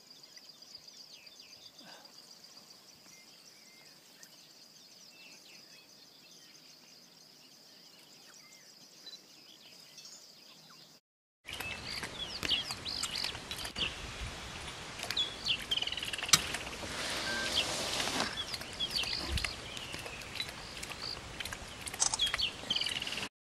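Birds chirping and calling over outdoor ambience. Faint at first, with a steady high-pitched whine and a few scattered chirps. After a short dropout about halfway through it turns much louder, with many quick chirps and calls over a hiss and a few clicks.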